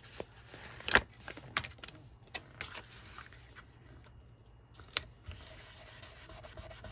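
Paper and a sticker sheet being handled: light rustling with a few sharp clicks and taps, the loudest about a second in and another about five seconds in.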